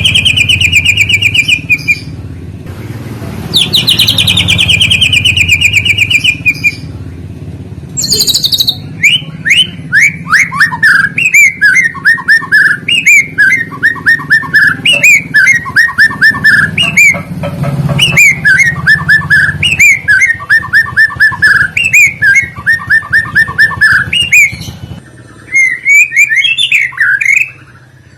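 Songbirds singing: two rapid rattling trills that fall in pitch, then a long run of quick, repeated down-slurred whistled notes, over a low hum.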